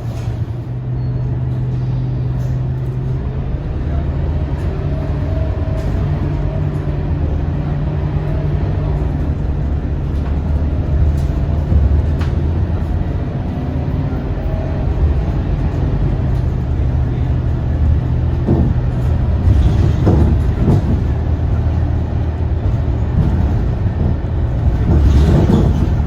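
Scania K230UB bus's five-cylinder diesel engine running under way, its note stepping up and down a few times as it pulls through the gears. The cabin clatters a few times near the end.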